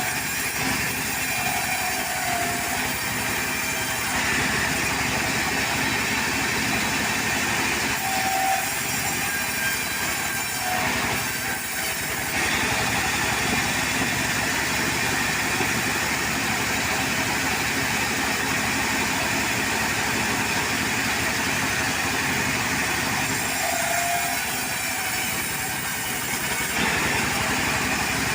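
Portable sawmill's engine running steadily, with a dense, even mechanical noise that holds at the same level throughout.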